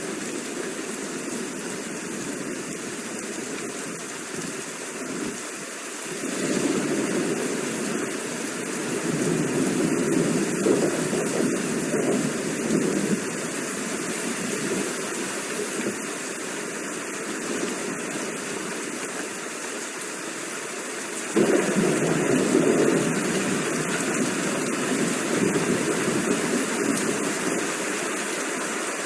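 Steady rain with rolling thunder: one low rumble swells about six seconds in and lingers, and another breaks in suddenly around twenty-one seconds and fades slowly.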